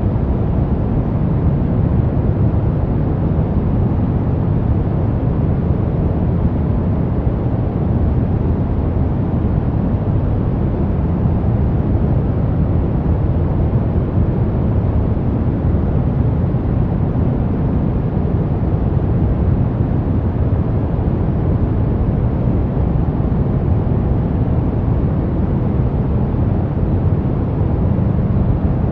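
Brown noise: a steady, deep rushing hiss, heaviest in the bass and thinning out toward the treble, with no change in level or character.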